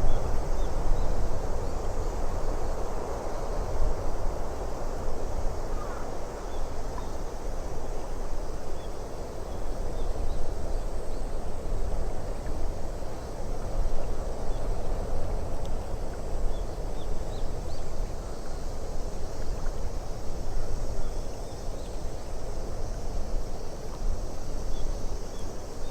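Steady nature ambience of wind with a low rumble, with faint, scattered short bird chirps throughout.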